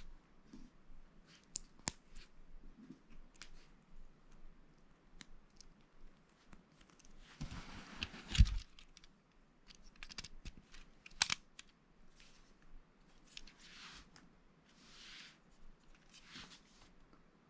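Lego bricks being handled and pressed together: irregular small plastic clicks and clatters, with a sharper click and knock about eight and a half seconds in and another about eleven seconds in. Several short bursts of rustling run between the clicks.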